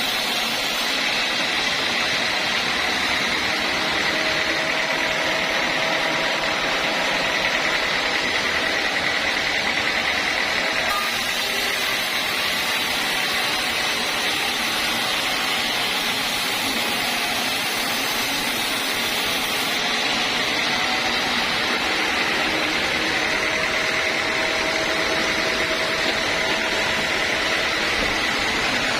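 Band sawmill running steadily while sawing a teak log, a constant machine noise with a faint high whine.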